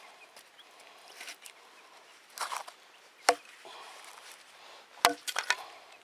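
Husqvarna carpenter's axe chopping firewood: two sharp chops about a second and a half apart, the second followed quickly by a few lighter knocks.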